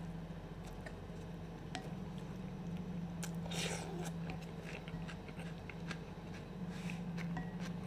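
Close-miked chewing of a mouthful of sausage and bread, with wet, squishy mouth sounds, and a few sharp clicks as a wooden spoon scoops tomato and onion salad from a glass bowl. A steady low hum runs underneath.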